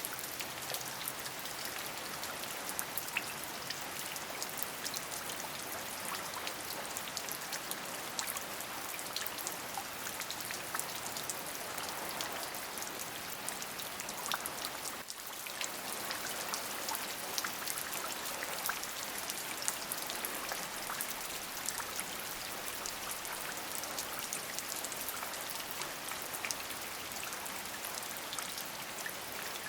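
Steady rain: a dense hiss of many small drop ticks, dipping briefly about halfway through.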